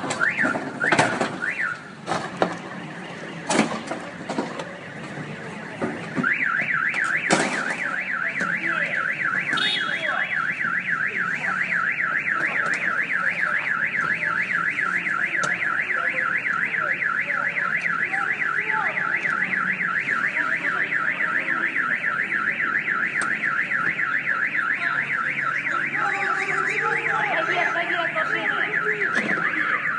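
Car alarm sounding a fast, steady warbling siren, starting about six seconds in after a few sharp knocks and two short chirps.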